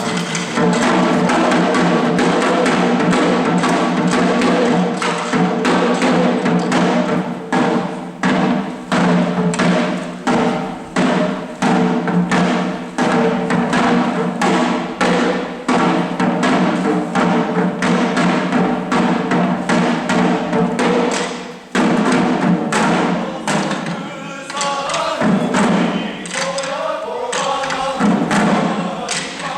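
Shishi-odori deer-dance drums beaten in a steady rhythm of about two strokes a second, over a steady pitched drone. After a brief break past the two-thirds mark, the beat loosens and chanted singing comes forward.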